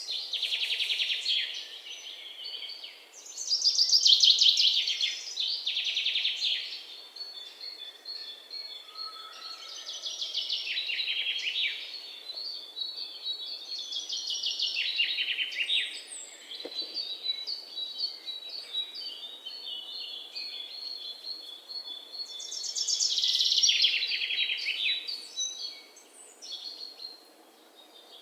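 A songbird singing: repeated fast trilled phrases that fall in pitch, about every few seconds, with thin high twittering between them. The loudest phrases come about four seconds in and again near the end.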